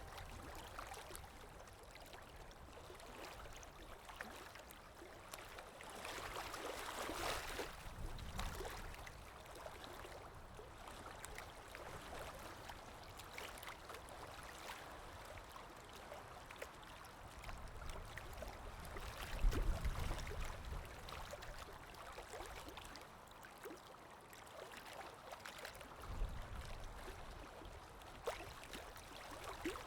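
River water gently rippling and lapping, a soft continuous wash. A low rumble about two-thirds of the way in is the loudest moment, and a second, weaker one follows a few seconds later.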